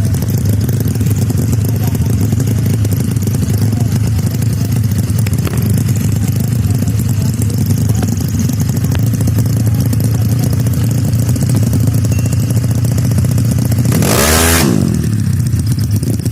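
Motorcycle engines running with a steady low drone; about fourteen seconds in, a motorcycle passes fast at high revs, its pitch falling as it goes by.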